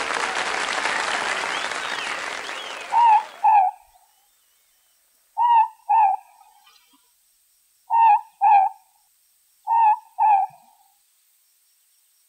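Applause fading out, then a morepork (ruru) calling its two-note "more-pork" hoot four times, the calls about two and a half seconds apart.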